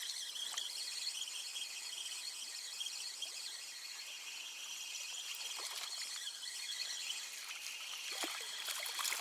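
Spinning reel being wound in on a hooked perch: a steady faint whir, with a few light clicks or splashes along the way.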